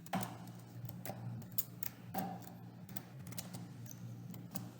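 Computer keyboard keys typed in irregular clicks, over a low steady hum.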